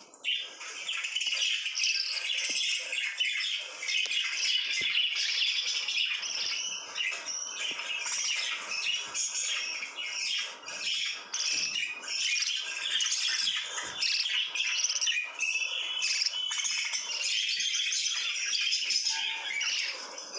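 Pet lovebirds chattering and chirping without pause, a dense mass of short high-pitched calls.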